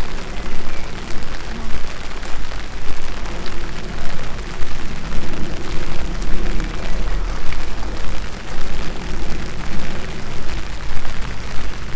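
Steady rain falling on a park, with a loud low rumble underneath and a level that pulses up and down about twice a second.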